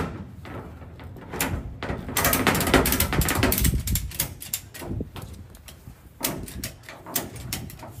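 Ratchet tie-down strap being cranked tight on a race car, a run of rapid ratchet clicks in bursts with short pauses between.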